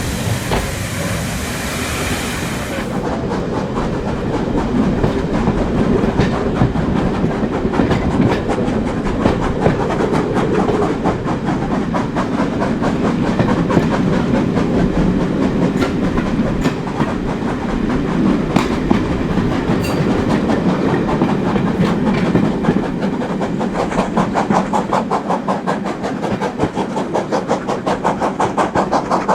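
Steam-hauled train running along the line: a continuous rumble of wheels on rail, with a quick regular beat that grows clearer near the end. A high hiss cuts out about three seconds in.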